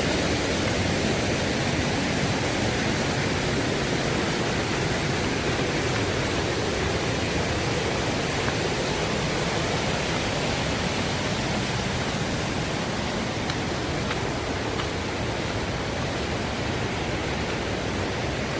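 Waterfall rushing steadily, a dense even hiss of falling water that fades slightly toward the end.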